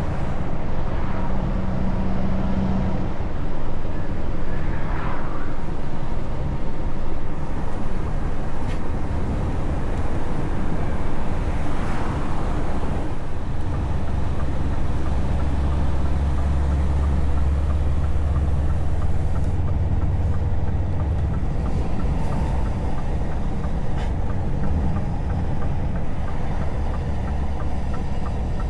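Scania S truck engine with open exhaust pipes running under way: a steady, deep drone with road noise. The low note grows heavier for several seconds in the middle, then eases again.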